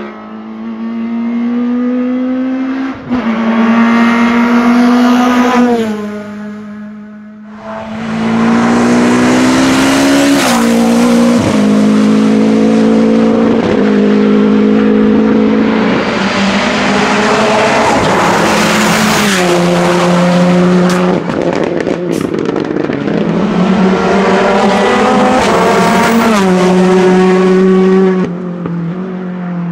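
Hillclimb race cars at full throttle, the engine note climbing and dropping sharply at each upshift, loudest as the cars pass close by.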